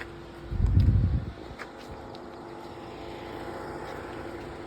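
A loud low rumble lasting under a second, about half a second in, over a steady hum with one held tone.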